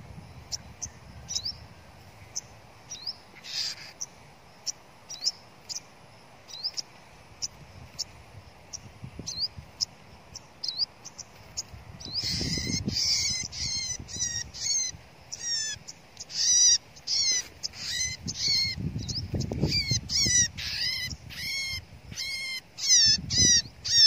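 Small songbirds chirping: short, high chirps repeat about twice a second, faint at first. About halfway through they turn loud and rapid, with a few low thumps in between.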